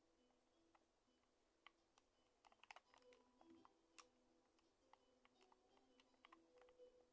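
Near silence, with faint scattered clicks, several close together about two and a half seconds in, over a faint low hum.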